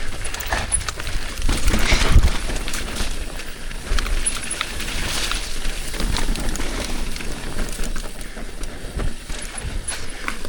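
Mountain bike riding down a wet, muddy, rocky trail: a steady rush of tyre and trail noise with low rumble, and the bike clattering with frequent knocks over loose rock.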